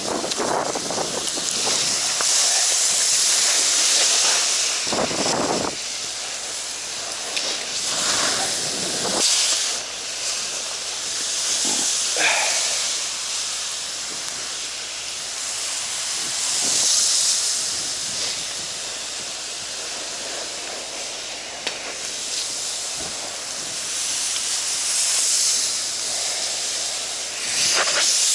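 Water from a fire hose nozzle set to a wide spray pattern, hissing steadily and swelling and easing in waves, with a few brief knocks.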